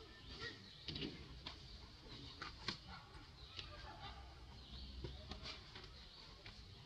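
Faint outdoor ambience: birds calling in the background, with scattered light clicks and rustles.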